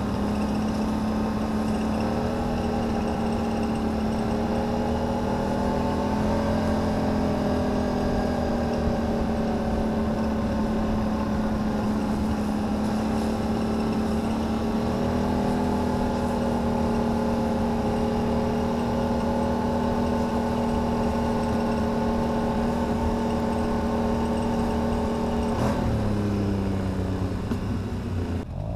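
A 2009 Can-Am Renegade 800's V-twin engine and CVT running at a steady speed with a steady pitched drone. The pitch steps up slightly a couple of times and falls near the end as it slows. The owner takes the odd noise to come from the CVT housing rather than a failing CV shaft.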